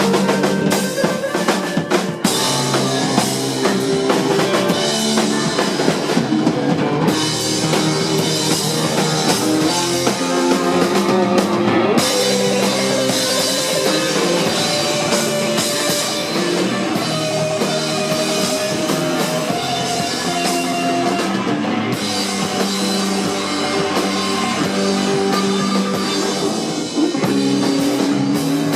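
A rock band playing live: drum kit, electric guitar and bass together, with loud continuous drumming.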